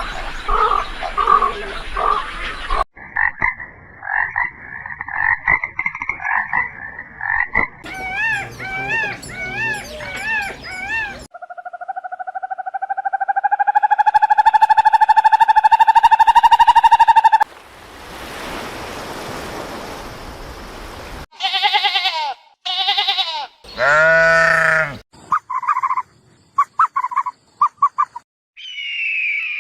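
A string of different animal calls, each a few seconds long, switching abruptly from one to the next: pulsed calls, warbling and trilling calls, a long rising call, a stretch of noise, then short repeated calls and clicks near the end.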